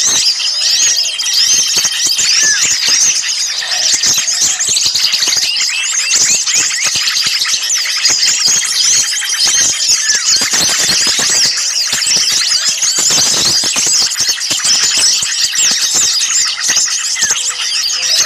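A dense, noisy chorus of many small songbirds chirping and chattering at once in rapid, high, overlapping calls. It is a bird-lure recording of agitated small birds, played to draw other small birds in.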